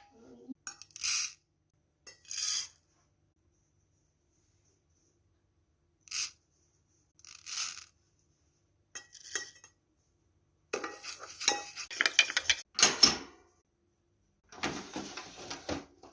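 Clinking and clattering of dishes and small hard objects, in short separate bursts with silent gaps, busiest for a couple of seconds past the middle.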